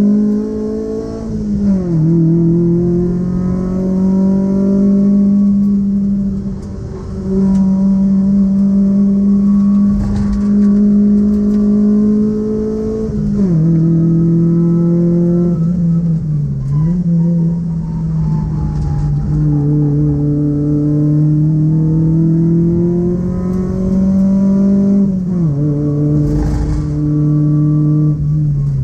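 Haima Haifuxing car's engine heard from inside the cabin, running hard at a fairly steady pitch that creeps upward, with the note dropping suddenly three times (near the start, about halfway and near the end) and dipping briefly once in between.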